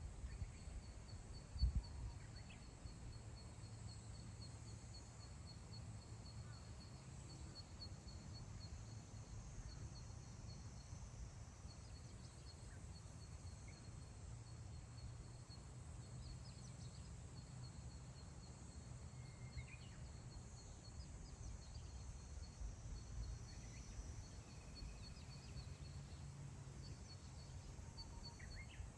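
Wind over open grassland, rumbling and gusting on the microphone, with a sharp bump about two seconds in. A thin, high trill pulses rapidly throughout, and a few short bird calls come in past the middle.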